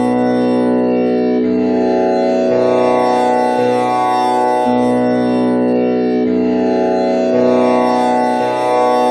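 Tanpura drone tuned to B, with one string set to komal ni (the flat seventh). Four strings are plucked one after another, each note sustaining into the next, and the cycle repeats about every five seconds.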